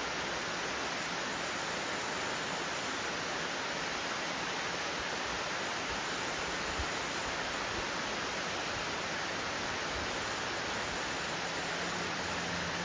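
Steady rushing hiss of a small waterfall, the water falling over rocks at low flow.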